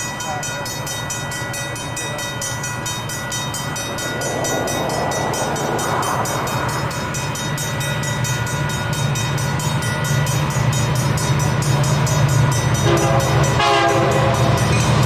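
Southern Pacific freight train's three diesel locomotives rumbling steadily and growing louder as they approach. The air horn sounds briefly near the end.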